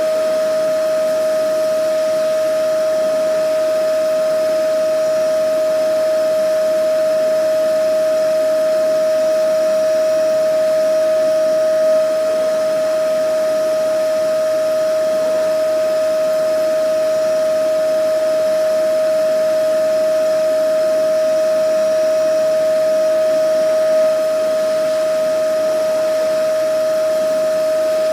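Vacuum cleaner motor running steadily, a constant whine over an even rush of airflow, with a slight swell in level about every twelve seconds.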